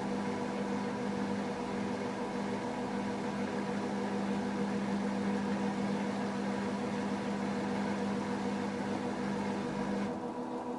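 LG F10A8HDS5 front-loading washing machine running mid-cycle: a steady motor hum with several fixed tones over a rushing noise, easing slightly near the end.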